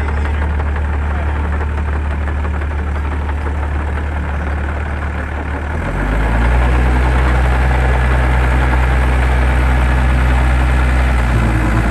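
Gehl 603 compact excavator's diesel engine running steadily; about halfway through it picks up speed and runs louder, as the machine is throttled up or put under load.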